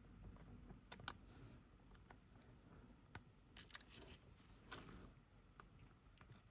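Faint scattered clicks and light taps of small repair tools and parts being handled during an iPhone 15 Pro screen replacement, a close cluster of them a little under four seconds in.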